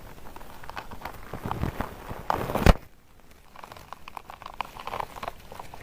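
Crackling and rustling with scattered small clicks, with a louder rubbing noise that ends in a sharp knock about two and a half seconds in.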